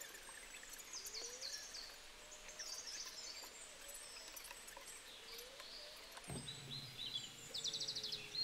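Faint birdsong of chirps and quick trills, with one sharp click about six seconds in.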